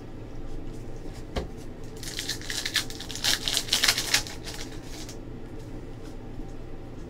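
A single tap, then about three seconds of dense crinkling and crackling as a trading-card pack's foil wrapper is torn open and handled.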